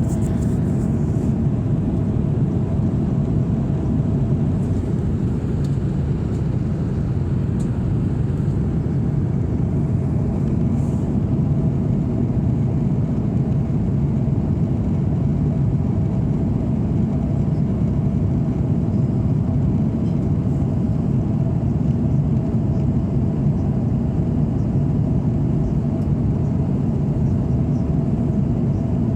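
Cabin noise of an Airbus A340-600 in flight: a steady low rumble of airflow and engines with a faint steady hum above it.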